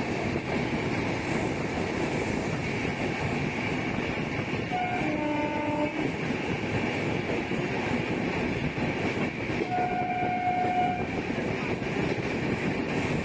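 Steady running noise of the Ispat Express, an Indian Railways express passenger train, at speed, heard from aboard: wheels on the rails and coach rumble. Two short horn tones sound over it, one about five seconds in and another about ten seconds in.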